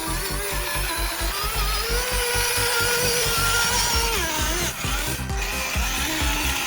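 Small DC electric motor of a homemade RC tractor whining, its pitch wavering and dipping about four seconds in as the load changes, with background music playing.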